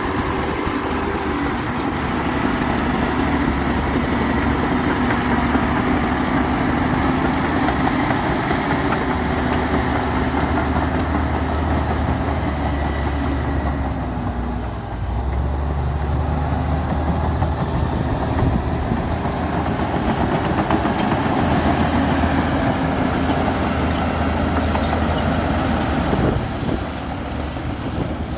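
Komatsu D60P bulldozer's diesel engine running steadily under load, dipping briefly about halfway through and easing off near the end.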